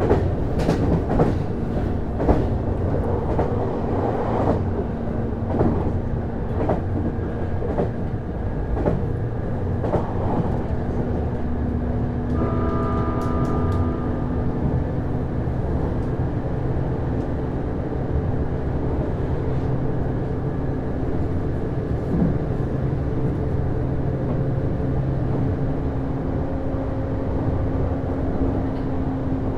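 Interior running sound of a JR East HB-E210 series hybrid diesel-electric train under way: wheels clicking over rail joints through the first ten seconds or so, over a steady low hum from the drive. A brief pitched tone sounds about twelve seconds in.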